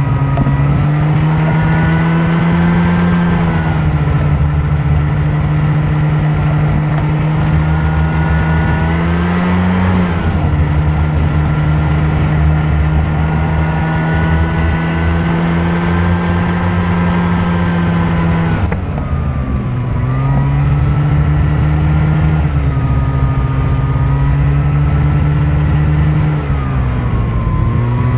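Snowmobile engine running under way, its steady note easing off and picking up again with the throttle several times, with a sharp drop about two-thirds of the way through.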